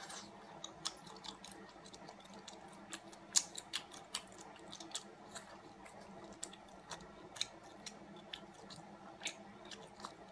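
Chewing stir-fried rice cakes: quiet, irregular wet mouth clicks and smacks, a few each second.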